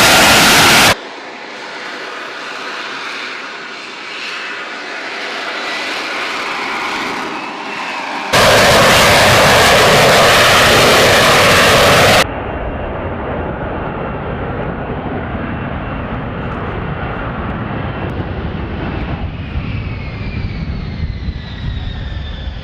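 Jet fighter engine noise in several edited takes: a very loud, harsh roar for about the first second and again from about 8 to 12 seconds, with quieter, more distant engine noise between. Near the end the pitch of the engine whine falls as the jet passes.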